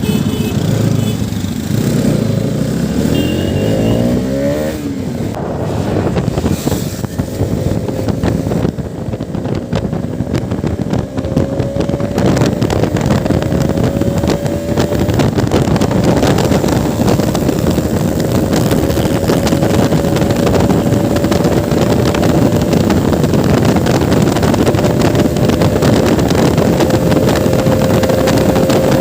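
Motorcycle engine under way on the road: the engine note swings up and down through the first few seconds, then holds steady under a thick rush of noise, its pitch slowly climbing as the bike gains speed.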